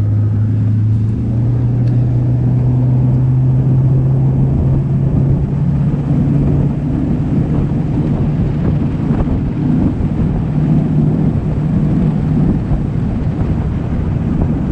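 Boat's outboard motor running steadily under way; its pitch rises a little about a second in, then holds.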